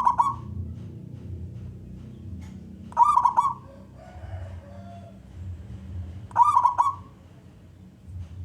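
A male zebra dove (perkutut) cooing its song in short, quick-stuttered phrases of about half a second, repeated about every three seconds, with a low steady rumble of background noise underneath.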